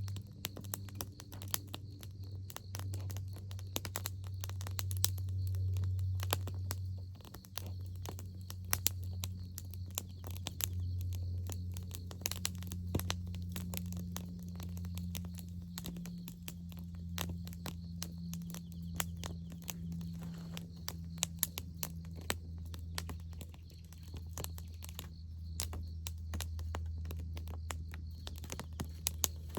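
Campfire wood crackling, with irregular sharp pops and snaps throughout, over a steady low hum.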